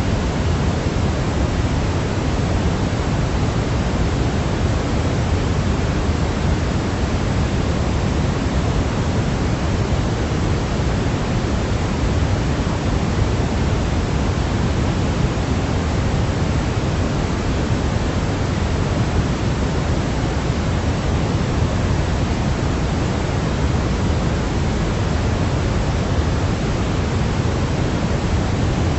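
Steady, unchanging sleep noise: an even hiss with more weight in the low end than in the highs, with no rhythm or breaks.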